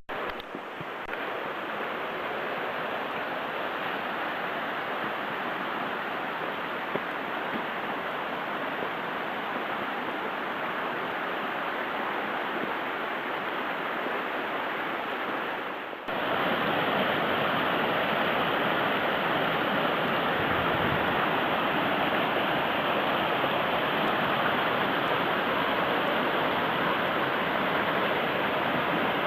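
Steady rushing of a mountain stream, with a sudden jump to a louder, closer rush about sixteen seconds in.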